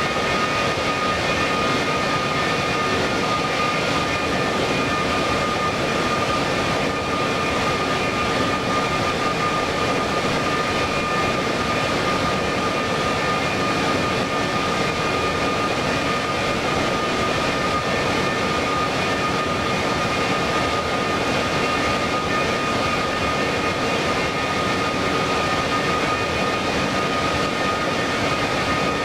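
Jet airliner engines running steadily, a continuous rushing noise with a high, steady whine over it and no rise or fall in power.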